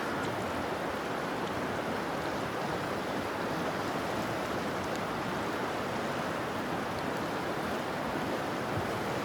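Steady rushing of river current.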